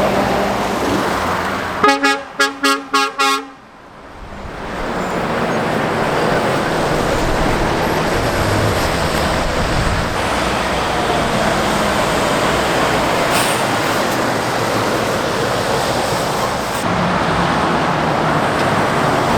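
Steady noise of passing road traffic, with lorries among it. About two seconds in, a vehicle horn toots about six times in quick succession, then the traffic noise briefly drops away and builds back up.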